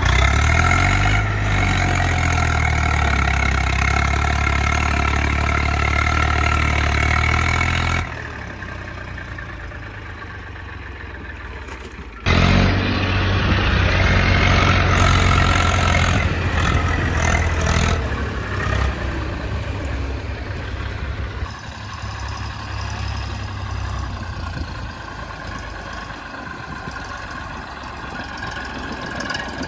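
Tractor's diesel engine running under load, with abrupt changes about 8 and 12 seconds in where the sound cuts between takes.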